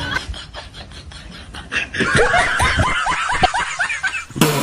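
Laughter in short, quick bursts, starting about two seconds in.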